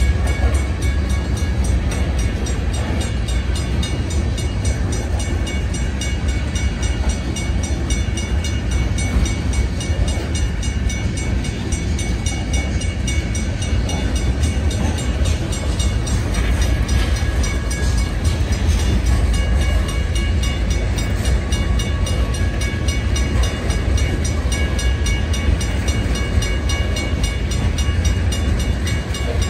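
Loaded coal hopper cars rolling past: a steady heavy rumble of steel wheels on the rails. Over it, a grade-crossing bell rings in quick, evenly repeated strikes.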